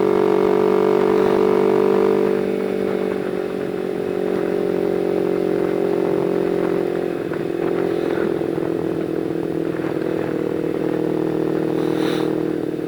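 Motorcycle engine running at a steady pitch while riding. It eases off slightly about two seconds in, then holds steady.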